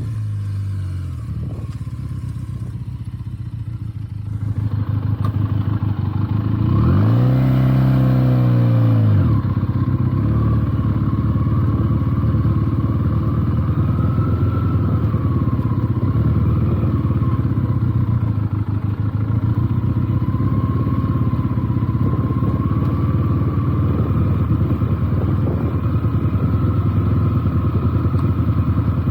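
Benelli TNT 300's parallel-twin engine running under way, growing louder about four seconds in. About seven seconds in, the revs rise and fall once, then it settles into steady running.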